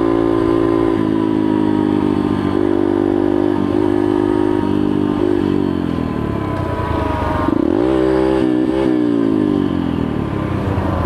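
Yamaha TTR125's single-cylinder four-stroke engine running under way. The revs hold steady, then drop about six seconds in, dip low and climb again near the eight-second mark, then fall back and settle.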